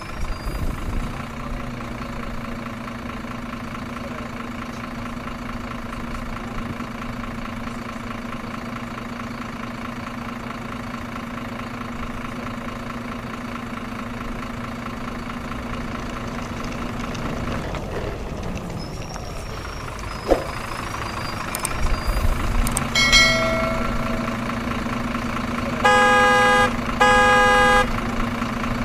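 Truck engine running steadily, with a brief knock about twenty seconds in. Near the end the truck's horn sounds: a short toot, then two loud honks in quick succession.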